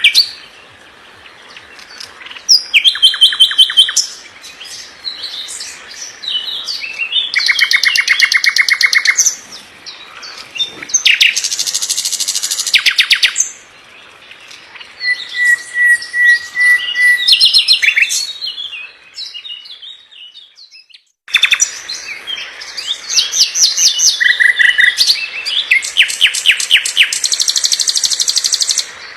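A songbird singing loud, fast, dense trills and rattling phrases in bursts of a second or two, with a brief break about two-thirds of the way through.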